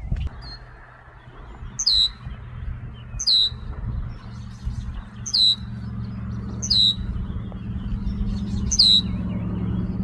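A bird giving short, high chirps that sweep downward, six times at roughly one every second and a half, over a steady low hum.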